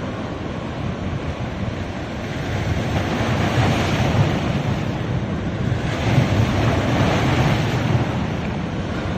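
Ocean waves breaking on a beach, two surges of surf about 3 and 6 seconds in, the second louder, over a steady wash and some wind rumble on the microphone.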